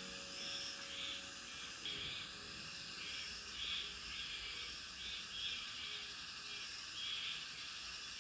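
Outdoor countryside ambience: a steady hiss with a chorus of chirping calls pulsing about twice a second.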